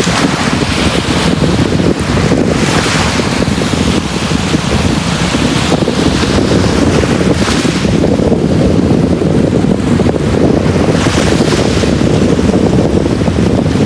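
Sea waves washing onto a beach: a steady, loud rumble of surf with a hissing surge every four or five seconds as waves break and run up.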